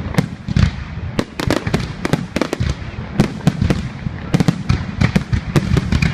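Fireworks display: a rapid, irregular series of sharp bangs and cracks from bursting aerial shells, many coming in quick clusters, with a low rumble and echo between them.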